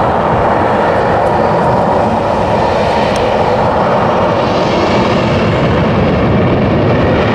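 Jet airliner engines running loud and steady, a higher hiss swelling about midway.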